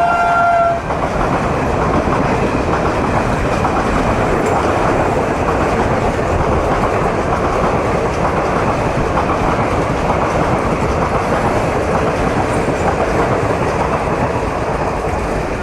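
Indian Railways superfast express train passing through a station at speed without stopping: a steady, loud rush of coaches and wheels with clickety-clack over the rail joints. A horn blast held from just before ends less than a second in.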